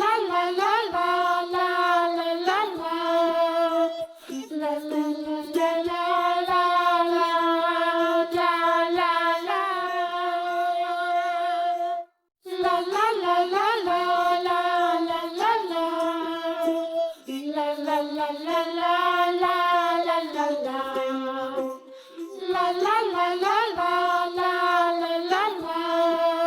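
Background music: a children's nursery-rhyme song with a child-like voice singing the melody, stopping briefly about halfway through before starting again.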